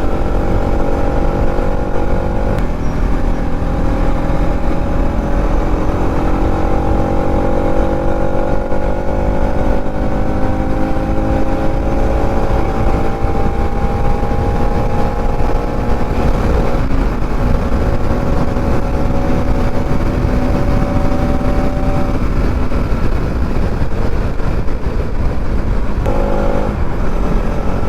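Bajaj Pulsar NS200 single-cylinder engine pulling at highway speed, its pitch climbing slowly for the first half of the stretch as the bike gains speed, then holding and easing off later on. Heavy wind rush over the microphone runs underneath.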